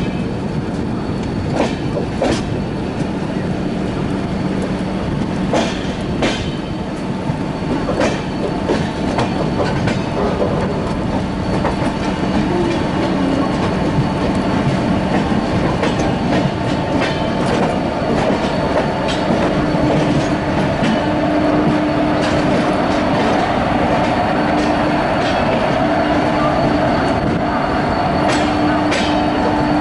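Rajdhani Express train running along the track: wheels clicking over rail joints, with a steady squeal of wheels on rail rising up in the second half.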